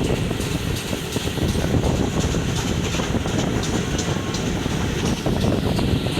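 Historic train running, a steady rumble with a run of sharp clicks around the middle.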